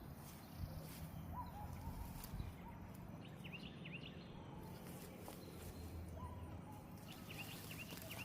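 Outdoor ambience with a steady low rumble and small bird chirps: a few short calls about a second in, another cluster about three to four seconds in, and more near the end.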